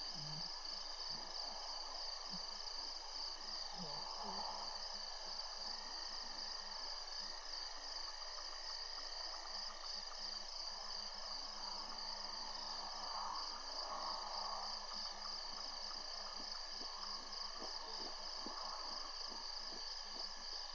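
Steady, continuous high-pitched chorus of night insects such as crickets, with a few faint low knocks now and then.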